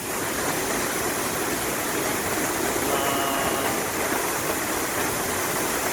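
Large waterfall heard at close range: a steady, even rush of falling water.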